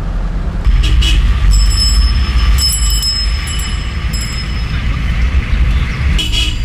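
A motor vehicle on the road: a loud, steady low rumble. Thin high-pitched squeals or whines come and go above it.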